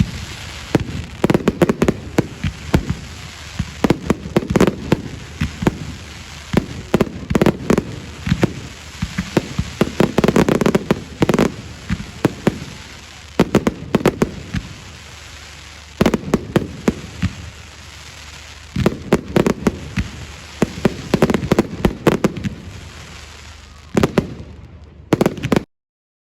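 Public fireworks display: rapid crackling bangs and deeper booms come in dense clusters with short lulls between them, then the sound stops abruptly near the end.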